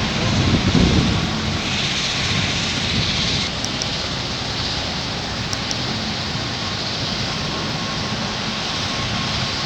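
Hindustan tractor's diesel engine running, a steady drone that swells briefly in the low range about half a second in.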